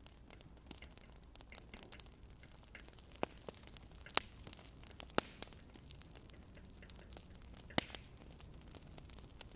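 Wood fire crackling: irregular small pops over a faint steady hiss, with a few louder snaps.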